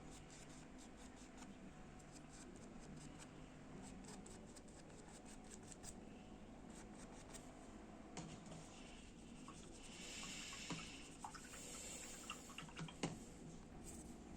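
Faint scratching and dabbing of a paintbrush on a painting surface: a run of quick light ticks, then a brief hissy stroke and a few sharper clicks near the end.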